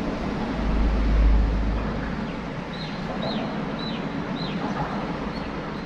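Wind buffeting the microphone in low gusts, strongest about a second in. From about three seconds in, a bird calls a run of short, high, falling notes about twice a second.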